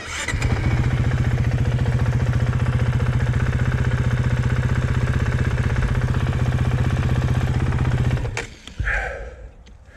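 Honda CRF450X's single-cylinder four-stroke engine idling with a steady, fast pulse, stopping abruptly about eight seconds in.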